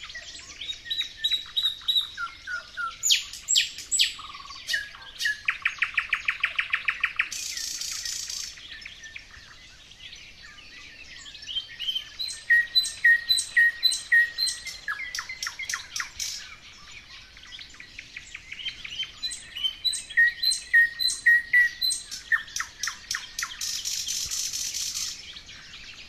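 Nightingale singing in three long phrases with short pauses between them. The phrases are made of repeated whistled notes, runs of sharp clicking notes and fast rattling trills.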